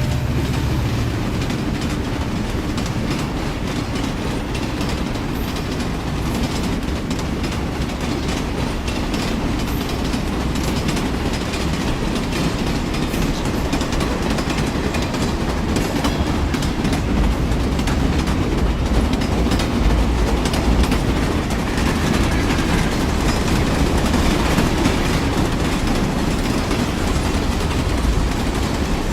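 Train running along the track: a steady rumble with continuous wheel clatter.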